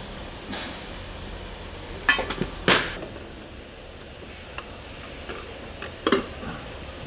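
Workshop handling noise: several sharp metallic clinks and knocks of tools and parts being set down and handled, the loudest clank coming near three seconds in, over a low steady hum.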